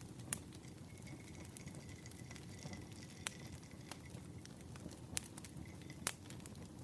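Firewood fire crackling: a low steady rumble of burning wood with scattered small snaps and four louder pops. A faint thin whistle sounds for a couple of seconds about a second in.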